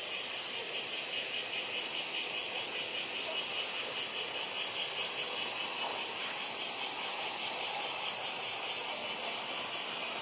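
Summer insects shrilling: a steady, high-pitched chorus with a fast, even pulsing running through it.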